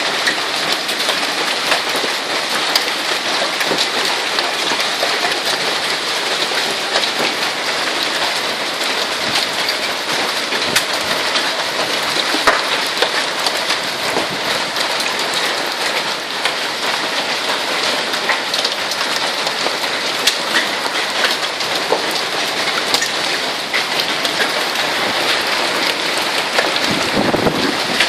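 Hail falling hard: a loud, steady dense clatter of hailstones striking surfaces, with many sharp separate hits standing out.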